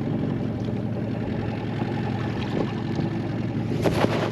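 Boat motor idling steadily, with a few short knocks near the end.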